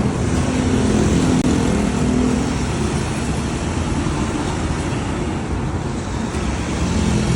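Bench metal-cutting saw with a 5 hp electric motor running steadily, a low hum under an even mechanical noise.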